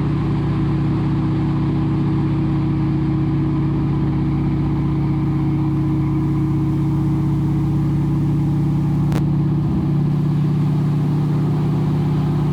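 Pratt & Whitney R-1340 Wasp radial engine of a T-6 Harvard, heard from inside the cockpit, running steadily as a low drone during the landing.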